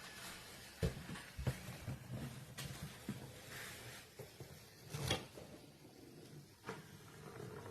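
Several irregular sharp knocks and clicks, the loudest about a second in, a second and a half in and five seconds in, over a faint steady low hum.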